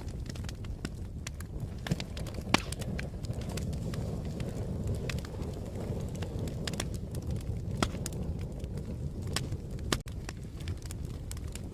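Wood fire crackling: a steady low rumble under irregular sharp pops and snaps, with the loudest pop about two and a half seconds in. The sound drops out for an instant about ten seconds in.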